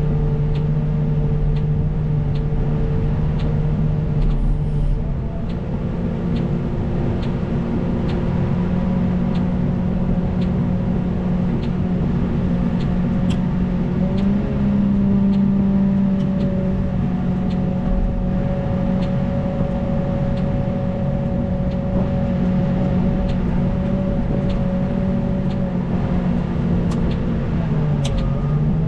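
CAT 926M wheel loader's diesel engine running steadily under work, its pitch shifting a few times as the revs change. Light ticks repeat at a regular beat over it.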